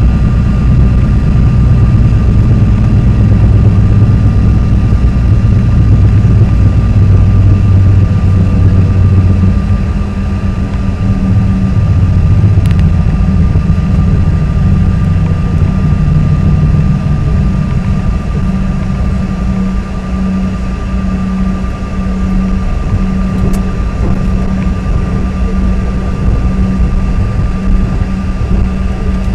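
Cabin noise of a CRJ-200 regional jet taxiing: the steady whine of its rear-mounted GE CF34 turbofans over a low rumble that eases about ten seconds in.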